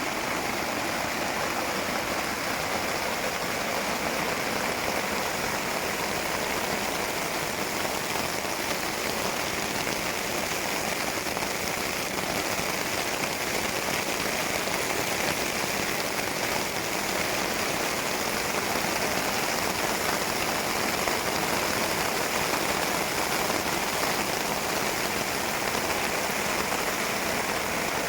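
Steady rain pattering on a tarp overhead, an even, unbroken hiss of drops.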